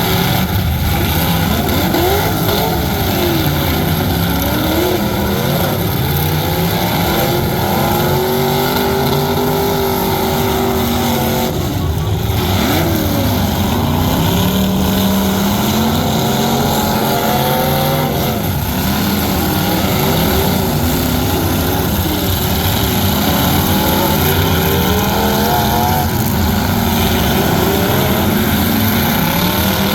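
Truck engines running hard and revving, their pitch repeatedly rising and falling.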